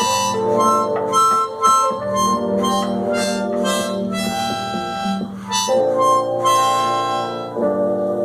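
Harmonica playing a tune of held chords, with quicker note changes in between.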